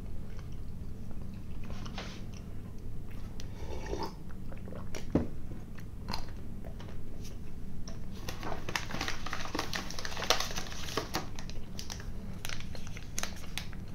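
Close-up chewing and biting of a soft chocolate-glazed soufflé candy: small wet mouth clicks and smacks, with a busier run of clicks from about eight to eleven seconds in.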